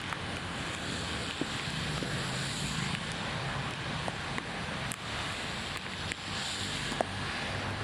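Steady rush of heavy rain and floodwater, with wind buffeting the microphone and a few sharp clicks.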